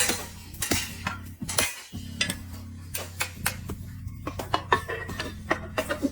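Repeated sharp metal clinks and knocks, irregular in timing, of steel truck wheel-hub parts and tools being handled during reassembly.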